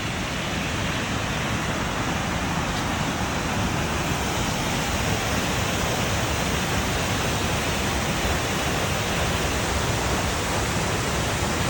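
A waterfall rushing: a steady, even hiss of falling water that gets a little louder over the first few seconds.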